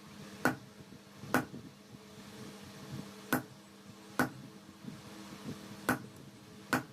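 Hammer striking metal in blacksmith forging, six sharp ringing blows about a second apart with a longer pause in the middle, over a steady low hum.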